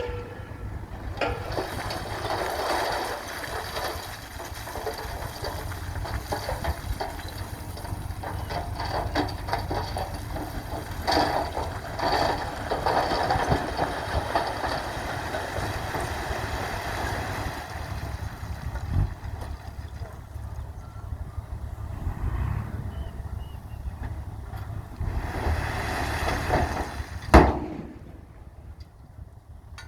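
Radio-controlled mini dump trucks and a mini bulldozer working, their small motors and gears running with a continuous mechanical noise and scattered knocks. One loud sharp knock comes near the end.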